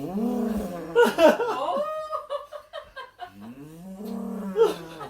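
A drawn-out, low, growling 'dinosaur sound' made in the throat, given twice, with choppier vocal sounds between the two calls.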